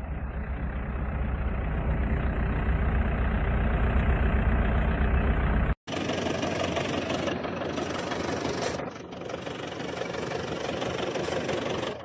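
Vehicle engine running at idle with a heavy low rumble. About six seconds in it cuts abruptly to another stretch of engine and road noise, more even and less bass-heavy.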